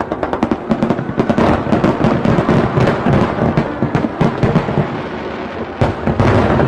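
A fireworks barrage: a dense run of rapid bangs and crackles, with heavier low booms coming in bunches.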